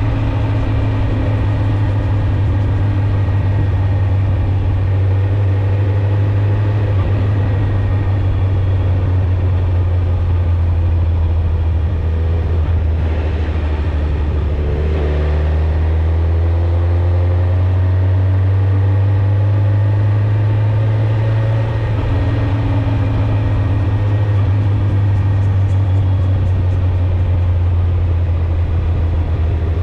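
Suzuki GSX-R1000 inline-four engine and exhaust running while the bike is ridden at a fairly steady road speed. Around the middle the note drops in pitch and then climbs back up.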